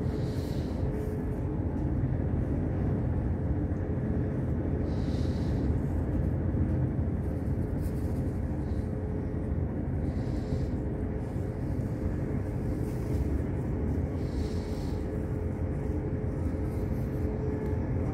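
Steady low rumble of a passenger train running along the track, heard from inside the carriage, with a faint steady hum over it.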